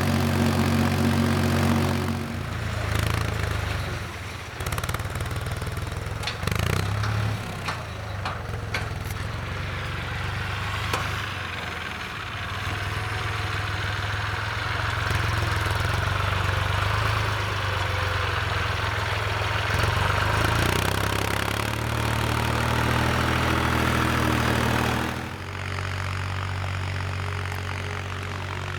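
IHC 353 tractor's diesel engine running steadily under load while pulling a spring-tine cultivator. From about two seconds in until near the end, the steady engine note gives way to a rougher rushing noise with scattered clatter, and the plain engine note returns.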